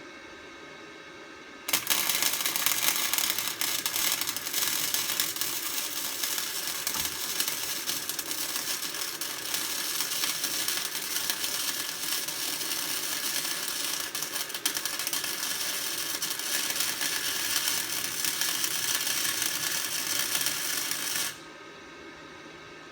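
Electric welding arc crackling steadily for about twenty seconds, starting and stopping abruptly, over the steady hum of the welder's cooling fan.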